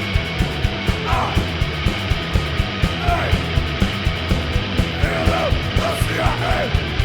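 Hardcore punk song: a fast, steady drumbeat at about four hits a second under distorted guitar and bass, with shouted vocal lines coming in several times.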